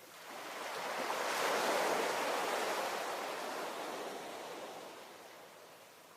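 A single ocean wave breaking and washing in: the surf noise builds over about a second and a half, peaks, then slowly fades away.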